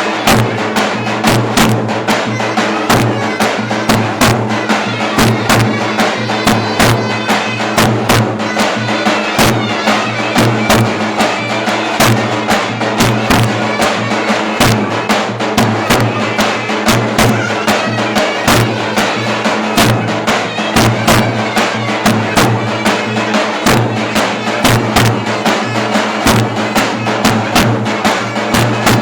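Turkish clarinet and davul bass drum playing loud traditional dance music: a nasal clarinet melody over a low sustained tone, with a constant run of sharp drum strokes.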